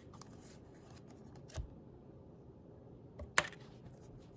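A deck of reading cards being handled and shuffled: a few soft taps and card snaps, the loudest a sharp click about three and a half seconds in, with a dull thump around a second and a half in.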